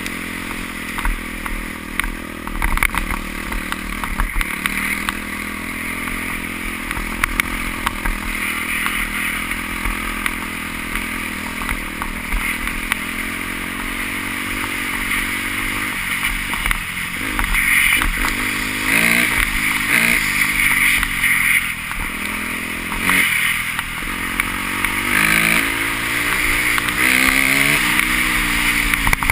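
Motocross motorcycle engines running and revving, rising and falling in pitch again and again, with the revving louder and more frequent in the second half.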